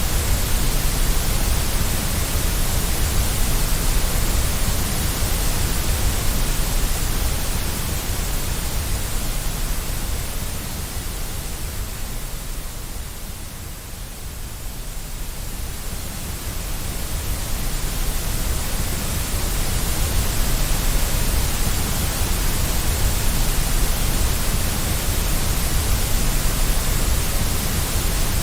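Steady synthetic white noise, a hiss spread evenly across all pitches, that fades down somewhat around the middle and swells back up.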